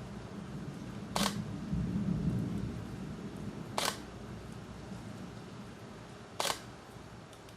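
Three sharp clicks, evenly spaced about two and a half seconds apart, over a low background rumble that swells about two seconds in and then slowly fades.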